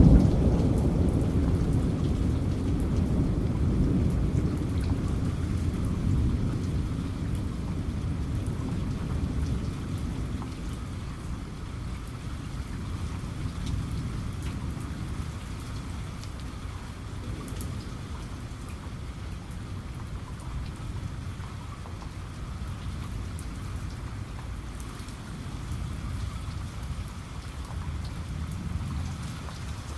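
Steady rain with a low rumble of thunder that fades away over the first ten seconds or so; a fainter rumble swells again near the end.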